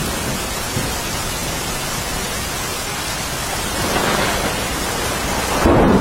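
Steady heavy rain hissing, with a rumble of thunder swelling in over the last two seconds and peaking near the end.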